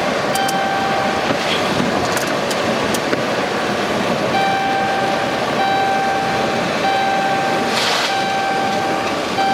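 Steady vehicle road and cabin noise, with a repeating single-pitch electronic beep in roughly one-second tones with short gaps between them, mostly in the second half.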